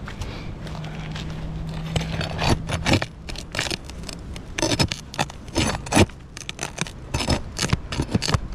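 A metal pry tool scraping and grating against asphalt shingles in short, irregular strokes while working roofing nails loose under a shingle. A steady low hum runs beneath it for the first couple of seconds.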